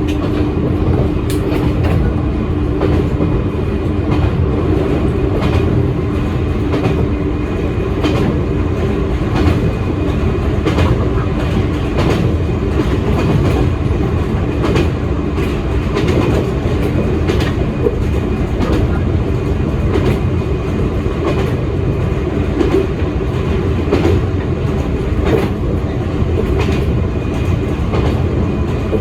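Electric commuter train of the Toyama Chihō Railway running along the line, heard from inside the front of the train: a steady rumble with the wheels clicking over rail joints. A steady hum fades out about a third of the way in.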